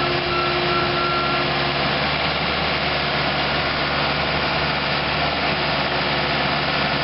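Case 1845C skid steer's four-cylinder diesel engine running steadily.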